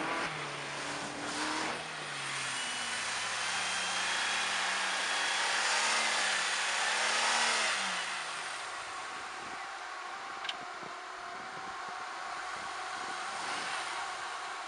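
Vehicle engine revving: its pitch climbs for several seconds, falls back about halfway through and settles to quieter running, with a single sharp click about ten seconds in.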